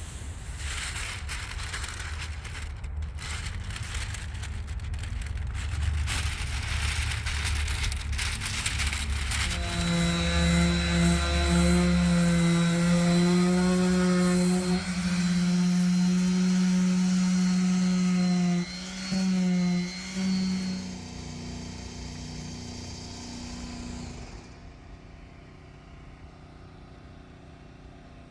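A handheld power tool working on the bumper: rough scraping noise over a low rumble, then about ten seconds in a motor runs with a steady whine. The whine cuts out briefly twice near the nineteenth second, shifts higher, and dies away about twenty-four seconds in.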